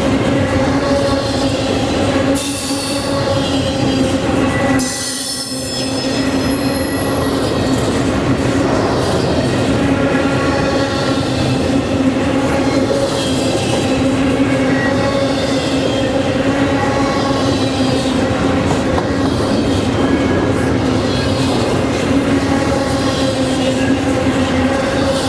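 A freight train rolling past, its cars running by steadily with a sustained squeal of wheels on the rails.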